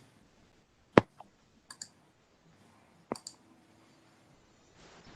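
Sharp clicks of a computer mouse: one loud click about a second in, then two quick double clicks.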